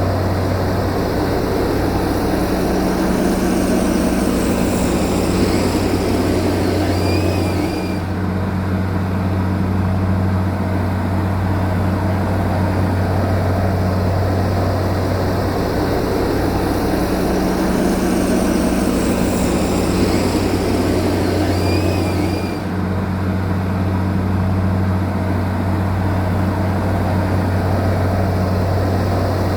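Heavy earth-moving machine's diesel engine running steadily under work, a continuous low drone with a brief high chirp about 7 s in and again about 22 s in.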